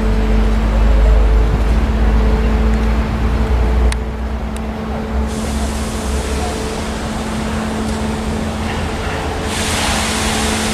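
Passenger train rolling away along the track: a low rumble with a steady droning hum. Two sharp clicks come about four seconds in, and a brighter hiss comes in near the end.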